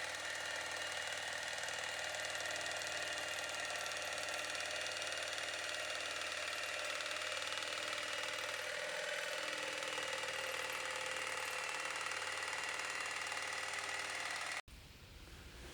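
Electric power saw running steadily with a high whine while cutting the marked curves in a wooden board; it cuts off abruptly near the end.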